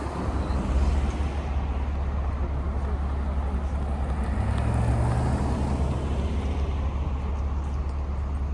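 City street traffic: a steady low rumble of cars passing, with one vehicle's engine note rising out of it briefly about halfway through.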